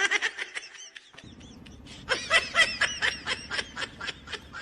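High-pitched human laughter in quick repeated bursts: a short run at the start and a longer, louder run from about two seconds in.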